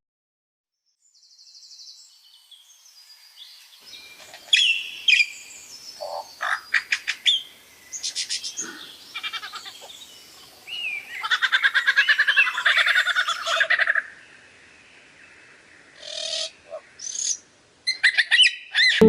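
Wild animal calls: scattered chirps and short whistled glides, then a dense run of rapid pulsed trilling calls from about 11 to 14 seconds in, and more sharp chirps near the end.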